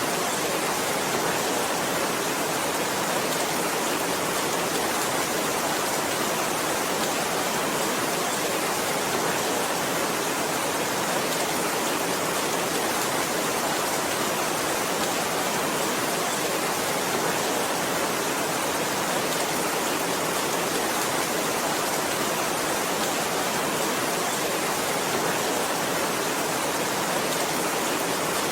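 Heavy rain as a steady, even hiss, with no single drops, thunder or other sounds standing out.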